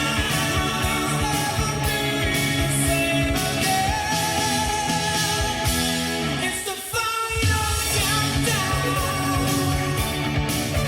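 A song with singing, played back through a custom car audio system of Technics tweeters and FaitalPRO midrange and midbass speakers. The low end thins out briefly about two-thirds of the way through.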